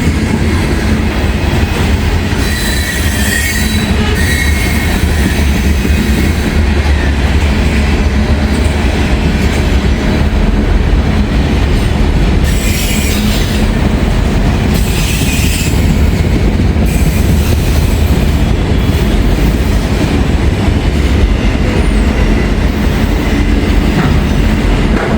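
Long freight train rolling past close by: a steady loud rumble of wheels on rail with some clatter, and a thin wheel squeal from about two to four seconds in.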